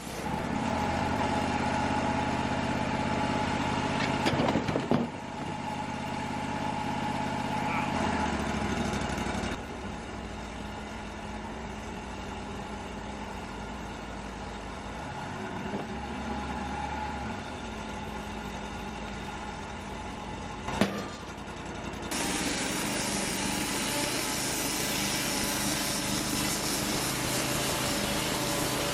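Wood-Mizer LT35 portable sawmill running, its engine note shifting several times as the mill works through the log. A few sharp knocks come about four to five seconds in, and one more about twenty seconds in.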